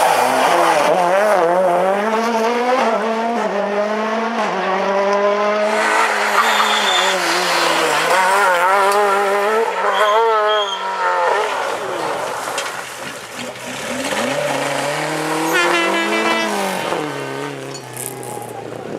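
Rally car engine revving hard, its pitch climbing and dropping again and again with gear changes and lifts off the throttle, fading near the end as the car moves away.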